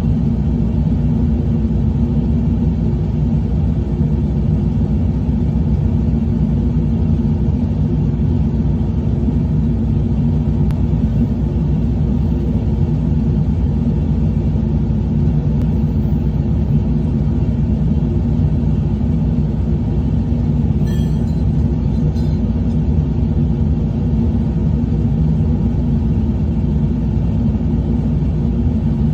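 Truck engine running steadily, a constant low drone that does not change in pitch or level.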